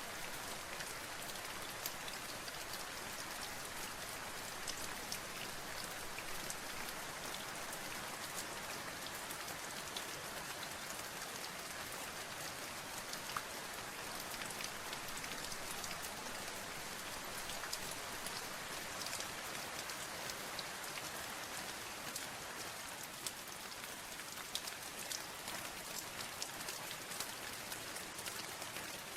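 Steady rain falling, with many individual raindrops ticking on a surface over an even hiss.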